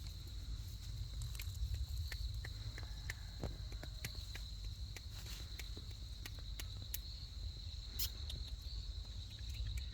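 Insects droning steadily at one high pitch, with scattered faint ticks and taps and a low rumble underneath.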